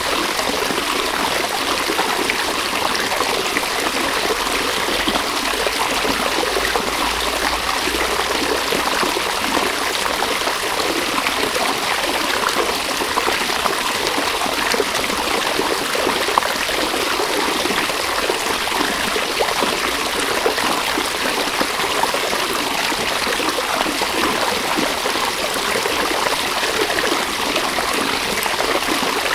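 River water flowing steadily, with a continuous trickling and babbling.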